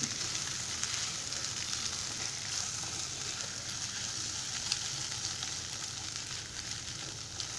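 Eggs and shredded vegetables frying with a steady sizzle in a nonstick pan as a silicone spatula stirs and scrambles them, with a few faint ticks of the spatula against the pan.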